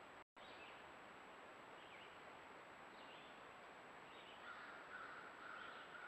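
Near silence from a trail camera: steady microphone hiss with a faint high electronic whine, cut by a brief dropout just after the start. Faint short bird chirps come about once a second, and a rougher, drawn-out call sounds for about two seconds in the second half.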